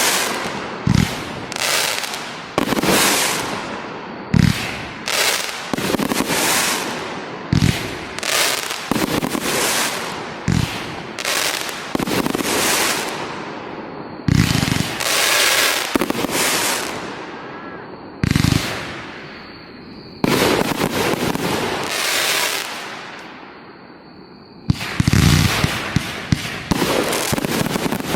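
Aerial fireworks display: a rapid string of shell bursts, several with deep booms, each followed by crackling that fades, with a short lull near the end before a dense volley goes off.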